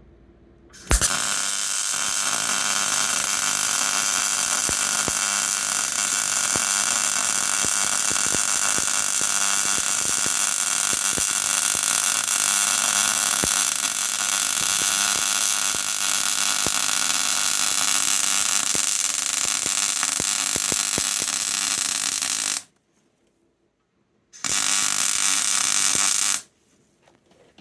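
MIG welder arc crackling steadily as steel hooks are welded onto a digger bucket, in a long run of about twenty seconds that stops abruptly, then a second short run of about two seconds.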